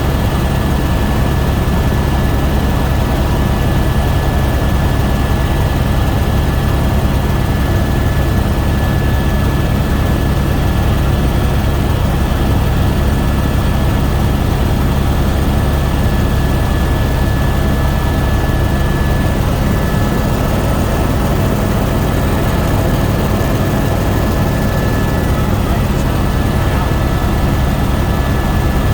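Helicopter in flight: a loud, steady drone of engine and rotor, with a thin steady whine above it.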